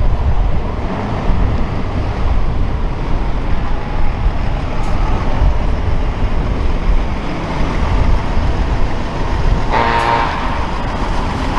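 Heavy trucks rolling past with a steady, dense low engine rumble. A short truck horn toot sounds about ten seconds in.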